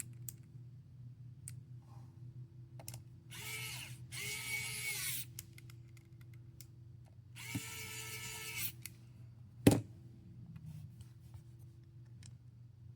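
A small electric precision screwdriver runs in two short bursts, its motor pitch rising as it spins up and falling as it stops, with a single sharp click a moment after the second burst, the loudest sound here. A steady low hum sits underneath.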